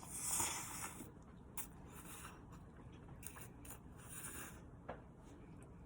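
Faint scraping and rubbing of a utensil working through food in a container, loudest in the first second, with a few light clicks and taps.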